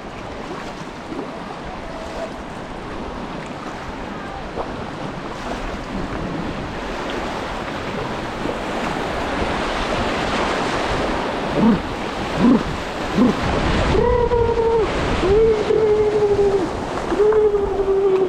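Creek water rushing around a kayak, growing louder as the boat runs through faster water. In the last few seconds a high voice gives three long calls, each falling slightly in pitch.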